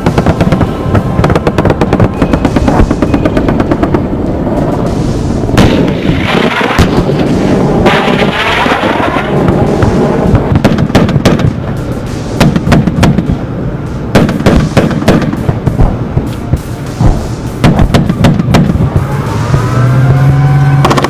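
Rapid, repeated gunfire in dense bursts, with music running underneath.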